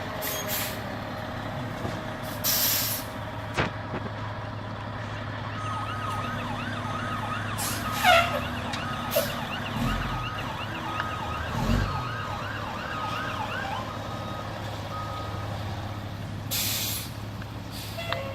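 Emergency vehicle siren warbling fast from about six seconds in until about fifteen seconds, over a steady low engine rumble, with a few short sharp noises.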